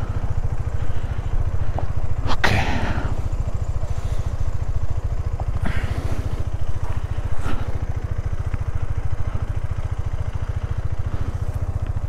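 KTM 390 Adventure's single-cylinder engine running at low speed as the bike rolls slowly, with a steady low beat of firing pulses. A brief sharp knock about two and a half seconds in.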